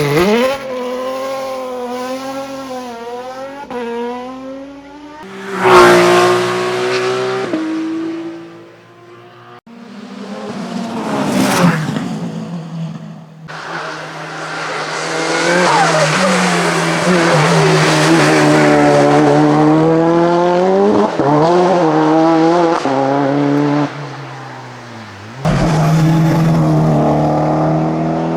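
Racing car engines revving hard and changing gear as hillclimb cars accelerate and pass, heard in several short successive shots, with tyre squeal. The pitch climbs and drops repeatedly with each gear, and the sound is loudest briefly about six seconds in and again near twelve seconds.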